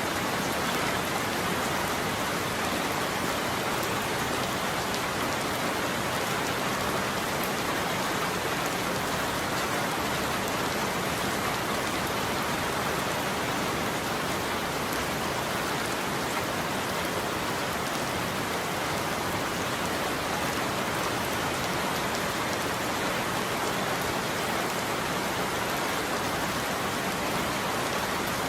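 Steady heavy rain falling on a roof: an even, unbroken hiss of drops.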